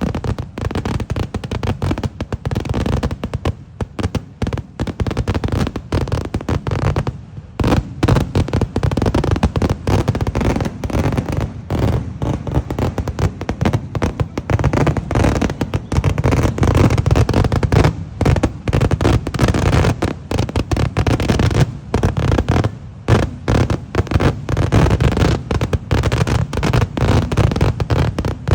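Kerala temple-festival fireworks (vedikkettu): a loud, dense barrage of firecracker explosions, many bangs a second, easing briefly a few times before going on again.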